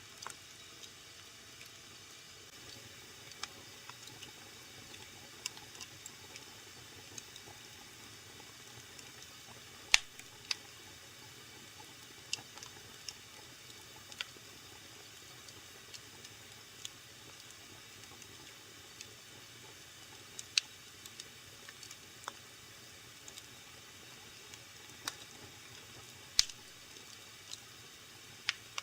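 Wood fire in a fireplace crackling: a soft steady hiss with irregular sharp pops, the loudest about ten, twenty and twenty-six seconds in.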